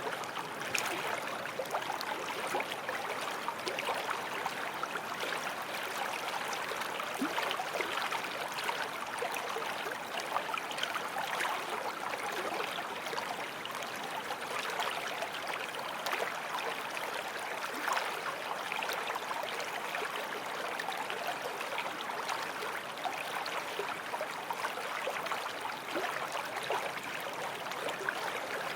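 Forest stream flowing, a steady rush of water with fine splashing and gurgling over stones.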